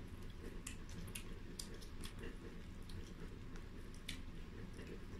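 Faint chewing and wet mouth clicks of a person eating chicken by hand, with small scattered smacks throughout.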